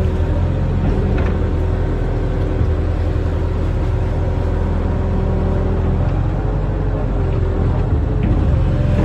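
Barge-mounted excavator's diesel engine running steadily, with a higher steady tone coming and going above the engine drone.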